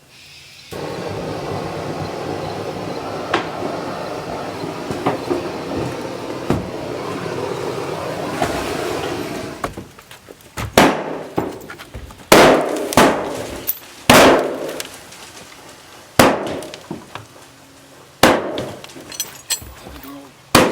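A lit firework hissing steadily with small crackles for about nine seconds, then a string of sharp, loud bangs one to two seconds apart, each ringing briefly.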